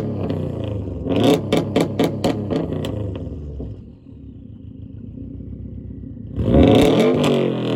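2017 Subaru WRX STI's turbocharged flat-four being revved through a catted downpipe and a cat-back exhaust with no muffler or resonators. A rev with rapid crackling about a second in settles back to idle, then another sharp rev comes near the end.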